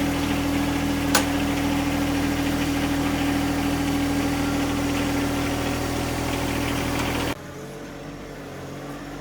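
Engine idling steadily, presumably the 1989 Dodge Dakota Shelby's 5.2-litre V8, with one sharp click just over a second in. The sound cuts off abruptly near the end, giving way to a quieter background.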